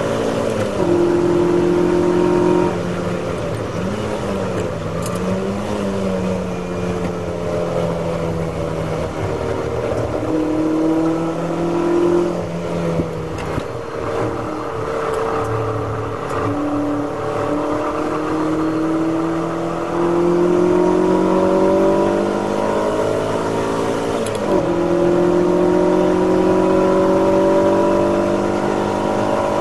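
In-car sound of a classic Ferrari V8 racing on track. The engine is held at high revs, then lifts with pitch dips and blips as it is downshifted into a corner. It climbs steadily in pitch accelerating out, with one sharp drop about three-quarters of the way through where it shifts up a gear.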